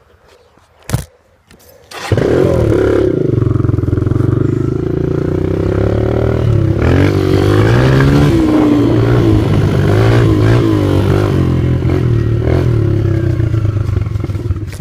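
Dirt bike engine coming to life suddenly about two seconds in and running loudly, its pitch rising and falling as it is revved and ridden, after a single sharp knock about a second in.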